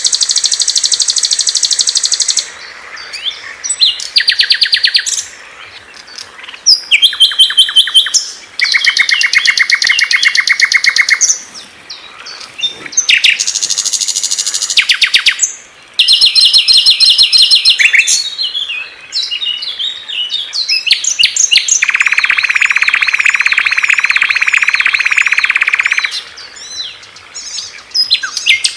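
Small songbirds singing a string of fast, high-pitched trills and chattering phrases, each lasting one to four seconds with short gaps between them. A longer, steady trill with wavering notes above it runs for about four seconds in the second half.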